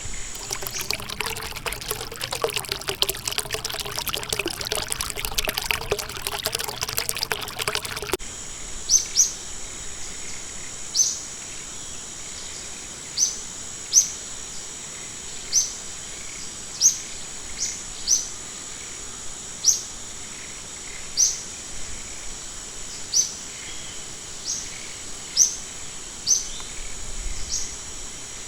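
Water splashing and trickling for about the first eight seconds, then cutting off abruptly. Throughout, a bird repeats a short high chirp every second or two over a steady high-pitched insect drone.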